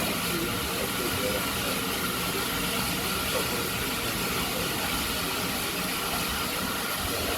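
Steady hissing rush around GWR 4500-class 2-6-2 tank engine 4555 standing and taking on water, with strong wind across the microphone.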